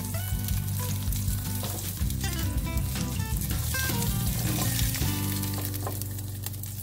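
Chicken breasts sizzling and crackling in hot olive oil in a skillet, with light scrapes and taps of a wooden spatula as the pieces are lifted out of the pan.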